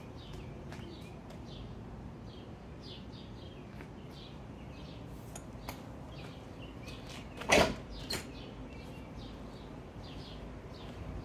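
Small birds chirping over and over above steady outdoor background noise. A single loud knock comes about seven and a half seconds in, with a softer one just after.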